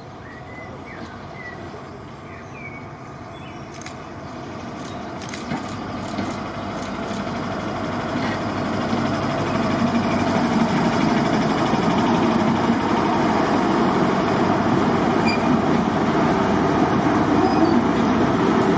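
Diesel locomotive approaching under power, its engine and train noise growing louder over about ten seconds, then running steadily loud as it draws near. Birds chirp faintly in the first few seconds.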